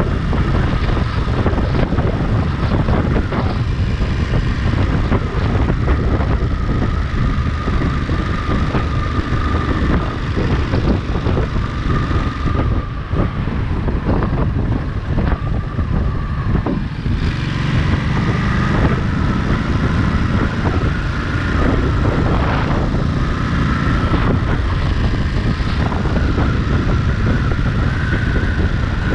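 Ducati Monster 937's 937 cc L-twin engine running while riding, under heavy wind noise on the microphone. The engine's pitch shifts up and down several times.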